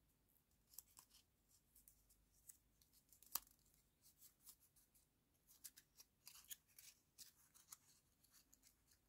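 Faint scissors snipping through paper: a scattering of small, quick snips and paper rustles, with one sharper snip about three and a half seconds in.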